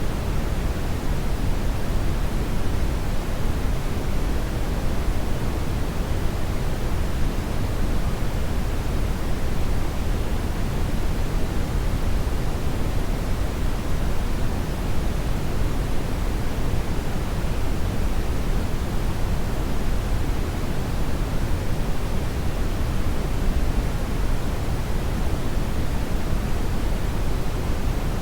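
Hair dryer running continuously on a steady setting: an even, unbroken rush of air noise, heaviest in the low range, with no change in speed.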